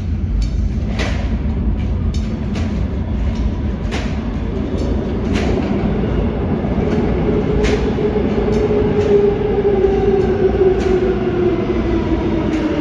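New York City Subway L train running through the station, wheels clicking over rail joints over a steady rumble. From about five seconds in, a motor whine slowly falls in pitch as the train slows.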